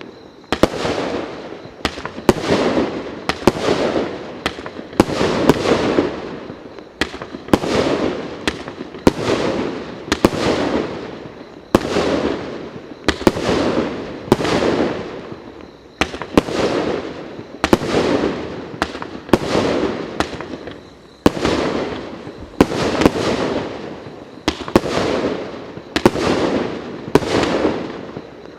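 A "Firebird" (Жар-птица) 1.2-inch, 37-shot firework cake firing shot after shot, about one a second. Each shot is a sharp report followed by a fading burst.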